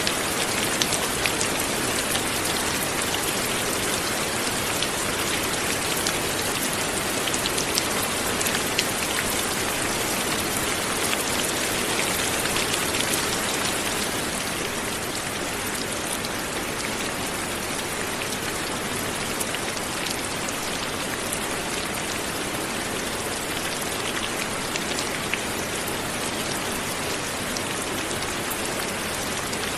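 Steady light rain falling, an even hiss with scattered individual drops ticking, easing slightly about halfway through.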